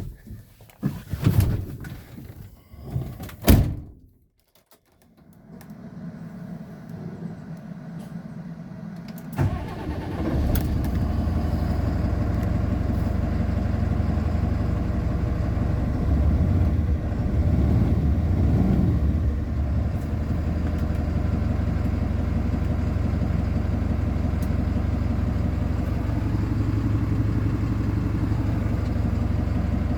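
A few knocks and clunks, then after a short pause the DAF CF 220 truck's diesel engine starts, about nine seconds in, and settles into a steady idle.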